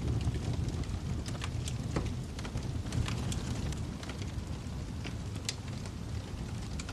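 Wood fire in a fireplace crackling: scattered sharp pops and snaps over a steady low rush of burning.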